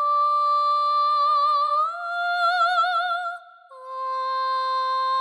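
Sampled solo female voice from a virtual-instrument library singing a slow wordless line: a long held note that slides up to a higher note with vibrato, a brief break about three and a half seconds in, then a new, lower held note.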